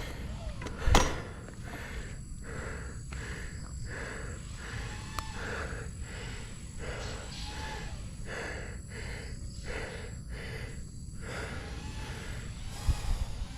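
Steady wind and ride rumble on the microphone, with a single knock about a second in and a string of short, evenly repeated animal calls, about three a second, through the middle.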